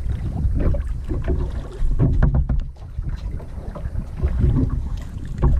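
Wind buffeting the microphone while kayaking, a loud, uneven rumble, with a few sharp knocks or splashes about two seconds in and near the end.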